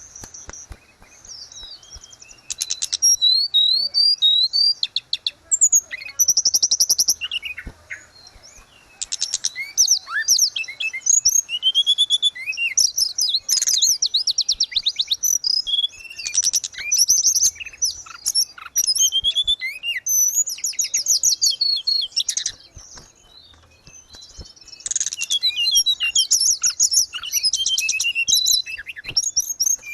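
Tledekan gunung, a small songbird, singing in long, high-pitched phrases of quick warbles and fast trills, with brief pauses between bursts.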